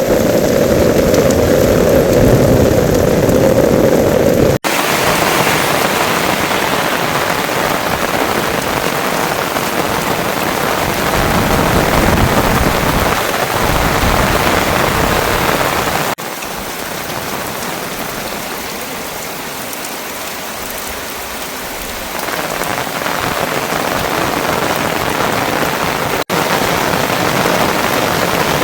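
Heavy rain falling steadily on surfaces, a dense even hiss. It breaks off for an instant three times and comes back with a slightly different sound each time, heaviest and deepest in the first few seconds.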